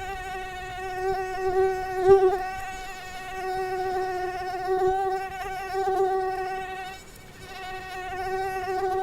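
Mosquito whining in flight: one steady buzzing tone that swells and fades as it moves, dropping away briefly about seven seconds in before coming back.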